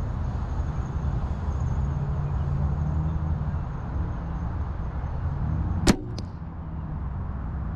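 A single shot from a PSE compound bow about six seconds in: a sharp snap of the released string, which hit the shooter's left arm, and a fainter click a moment later. A steady low rumble runs underneath.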